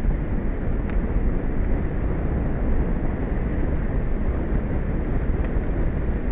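Wind buffeting an outdoor microphone over the open ocean, a steady low rumble with the wash of the sea beneath it.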